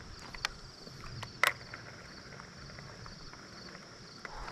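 Steady, faintly pulsing chirring of insects such as crickets along the river, with a few sharp clicks, the loudest about a second and a half in.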